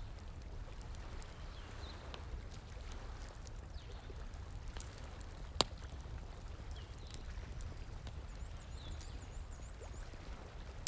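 Campfire crackling with scattered small pops over the steady rush of a flowing stream. One sharp, loud pop comes about halfway through, and a few faint high chirps are heard.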